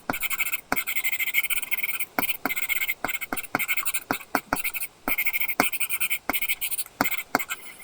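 Apple Pencil tip drawing on an iPad with a paper-feel screen protector: short scratchy pen strokes mixed with many quick sharp taps of the tip on the glass, in fast irregular runs.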